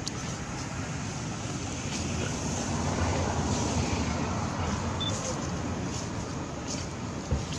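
Road traffic noise: a vehicle's rumble swelling a couple of seconds in and fading again, with a short thump near the end.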